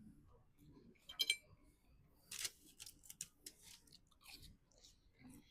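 Someone chewing and crunching a mouthful of chicken burger, with a sharp ringing click about a second in followed by a run of short crisp crunches.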